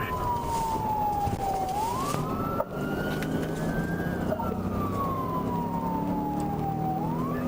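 Police car siren wailing in slow cycles: the pitch sinks slowly, climbs back quickly and sinks slowly again, over the steady engine hum and road noise of a patrol car at pursuit speed. A single sharp click about two and a half seconds in.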